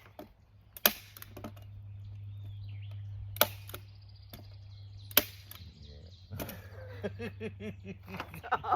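A staple gun firing staples into a board through greenhouse plastic: four sharp single snaps, a second or two apart. Near the end comes a short run of quick pitched sounds.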